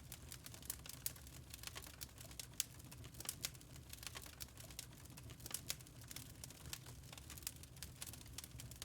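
Wood fire in a fireplace crackling: quick, irregular sharp pops and ticks, several a second, over a low steady rumble.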